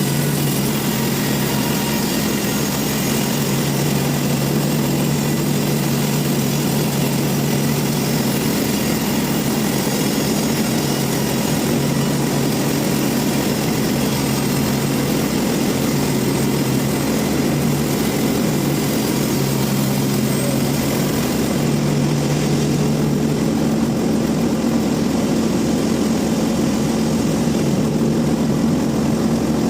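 Sawmill machinery running with a loud, steady mechanical drone; the sound changes slightly about two-thirds of the way through.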